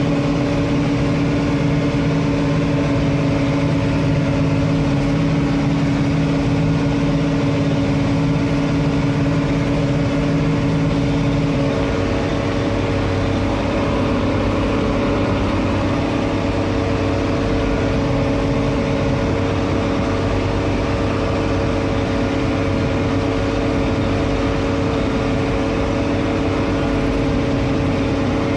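Diesel farm tractor engine running steadily under load, with a constant hum and a little machinery noise. Its note shifts slightly about twelve seconds in.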